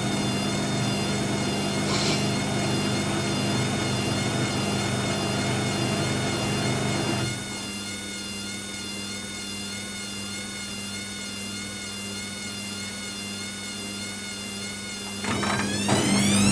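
Hoover WDYNS654D washer dryer's drum motor running with a steady whine. About seven seconds in it drops to a quieter hum, then near the end winds up again with a rising whine as the drum accelerates towards spin, the machine still working to balance the load.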